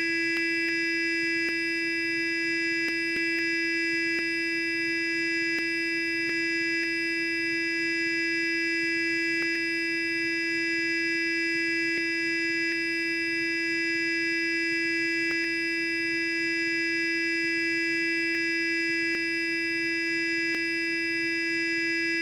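Sonic electric toothbrush running continuously: a steady, even buzz at one pitch, with a few faint ticks here and there.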